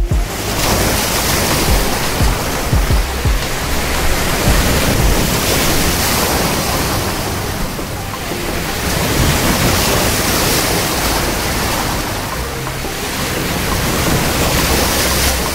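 Ocean surf: waves breaking and washing on the shore in a steady rush that swells and eases every few seconds.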